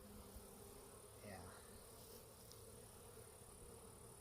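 Faint, steady hum of many Carniolan honey bees flying about their toppled, disturbed hive, with a thin high steady tone above it.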